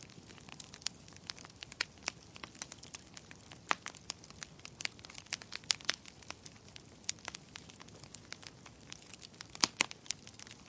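Wood fire of burning logs in a fireplace crackling: a steady run of irregular sharp pops and snaps over a soft low hiss, with a few louder pops about four, six and ten seconds in.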